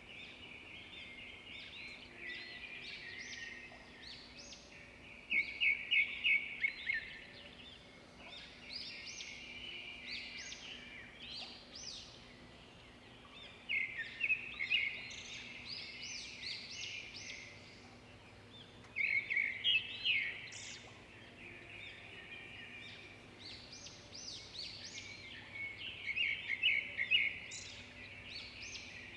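Songbirds chirping and trilling in bursts every several seconds, over a faint steady hum.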